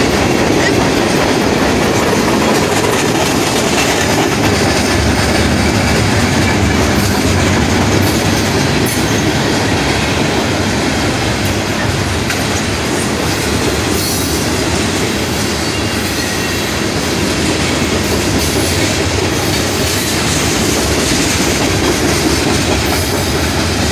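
Freight train cars rolling past, a loud, steady rumble of steel wheels on rail.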